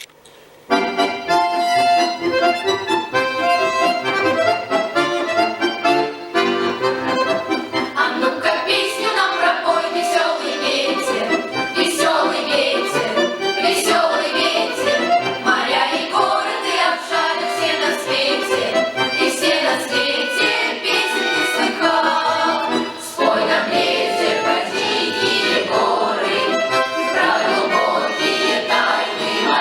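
Accordion-led music starting about a second in, the instrumental opening of a children's choir song; the melody becomes busier after several seconds.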